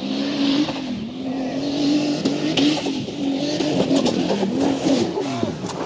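Off-road race vehicle's engine running hard along a dirt track, its note wavering up and down with the throttle and dropping away near the end.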